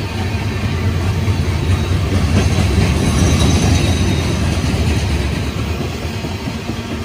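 Cars of a CSX coal freight train rolling past: a steady rumble of wheels on rail that grows louder toward the middle and eases off near the end.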